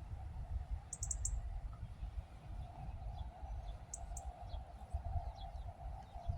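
Small birds chirping outdoors: a quick cluster of high chirps about a second in and another pair about four seconds in, with fainter calls between, over a steady low rumbling noise.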